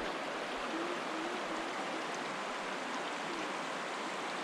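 The Hoh River flowing: a steady rushing of water.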